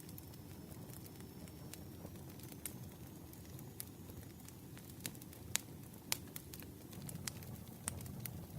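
Campfire crackling: a low steady rush of burning wood with irregular sharp pops and snaps, a few louder pops about halfway through.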